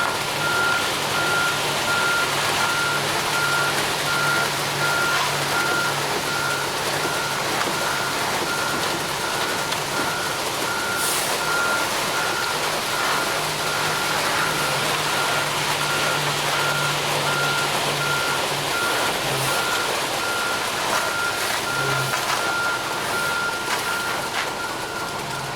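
Ready-mix concrete truck's back-up alarm beeping steadily at one pitch, over the truck's engine running.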